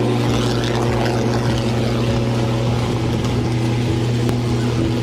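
An engine running steadily: a strong, even low hum with a rushing noise over it.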